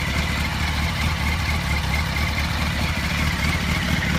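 2005 Yamaha R1's inline-four engine idling steadily on its stock exhaust.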